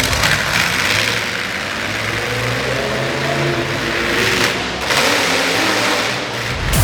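Truck engine running, with surges of hissing noise near the start and about four seconds in.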